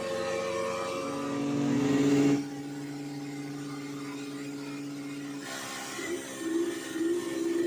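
Portable fire pump engine revving up, then dropping suddenly to a steady lower speed a little over two seconds in, and being revved in uneven blips again near the end.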